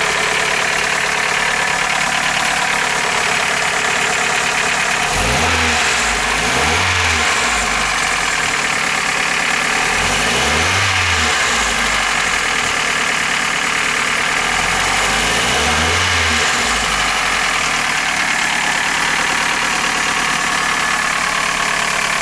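Toyota Caldina's 3S-FE 2.0-litre inline-four engine running steadily, blipped up and back down three times. It runs "like a tractor": the uploader puts part of the noise down to worn camshaft bearing journals in the cylinder head, and some of the clatter to a worn alternator bearing.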